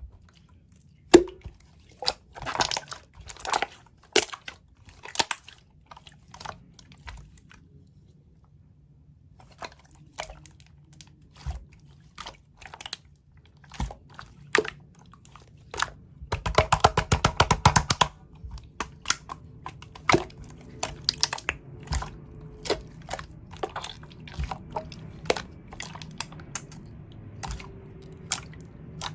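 Glossy 'mirror' slime being squished and poked by hand: sticky clicks and crackling air-bubble pops. They come in dense runs of rapid crackles about two to five seconds in and again around seventeen seconds in, with scattered single pops between.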